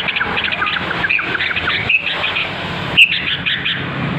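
A bird chirping in a fast, even run of short notes, with a single loud, sharp squawk about three seconds in.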